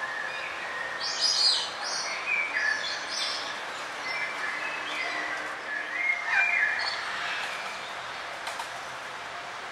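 Several songbirds chirping and trilling in a forest over a steady hiss of ambient noise, with the loudest bursts of calls about a second in and again around six seconds in.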